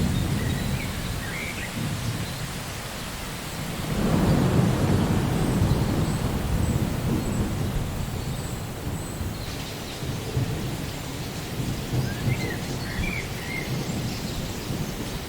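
Steady rain falling, with rolling thunder rumbling low underneath; the rumble swells about four seconds in and then slowly fades.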